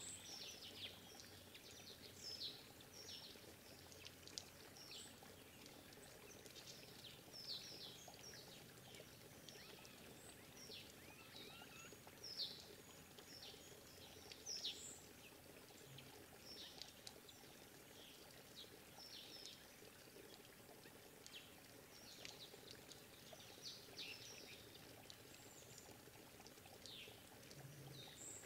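Small forest birds calling in short, high, falling chirps, many of them at irregular intervals, over a faint steady background hiss.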